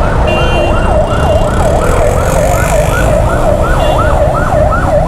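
Ambulance siren sounding in a fast up-and-down yelp, about three sweeps a second, loud and close, over the low rumble of road traffic.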